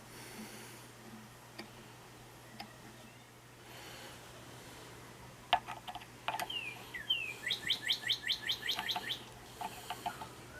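A small bird singing: a few short chirps, two falling slurred whistles, then a fast trill of about ten repeated notes in the second half.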